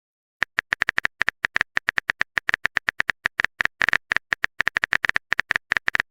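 Typing sound effect of a text chat: a run of short, sharp clicks at an uneven rate of several a second.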